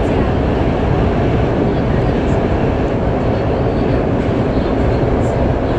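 Qingdao Metro Line 8 train running at speed through a tunnel, heard from inside the car as a steady rumble and rush of wheel and track noise.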